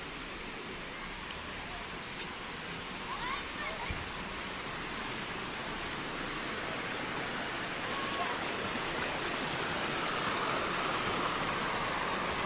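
Rushing water of a mountain river, a steady hiss that grows gradually louder.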